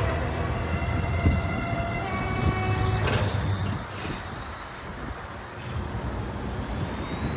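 Heavy trucks in a convoy driving past, their engines rumbling for about four seconds and then fading away. Steady horn-like tones sound over the first two seconds, and a short hiss comes about three seconds in.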